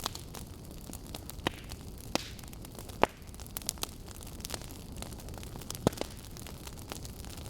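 Burning wood logs crackling over a steady low hiss, with irregular sharp pops, the loudest about three seconds in.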